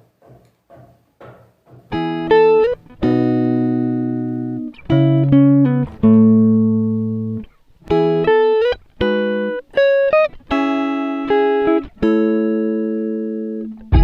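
Background music of plucked guitar, playing held single notes and chords that ring out and fade one after another. For about the first two seconds only faint, quick, evenly spaced ticks are heard before the guitar comes in.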